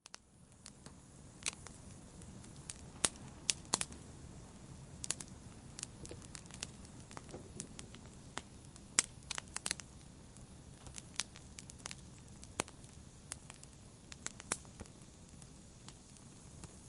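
Wood fire crackling in a fireplace: a steady low rustle of burning with irregular sharp pops and snaps, several at a time in places. The sound rises in from silence at the very start.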